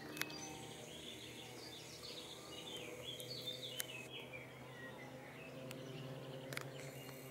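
Faint birdsong outdoors: short chirping phrases in the first few seconds, over a low steady hum and a few light clicks.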